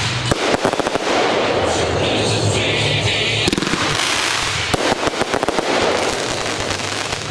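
Fireworks going off, with two runs of rapid crackling, the first about half a second in and the second about five seconds in.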